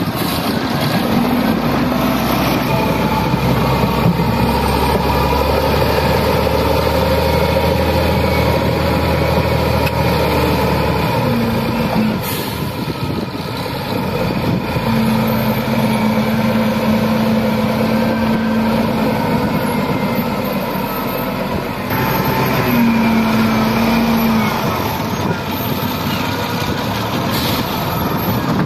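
Heavy diesel machinery working: wheel loader and dump truck engines running continuously, their pitch shifting as they work under load, with a couple of brief hisses.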